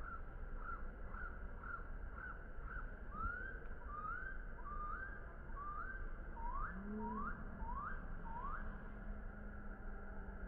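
A series of short rising whistled notes, about two a second and some fifteen in all, the later ones sweeping up from lower and lasting longer. A low steady hum comes in about two thirds of the way through.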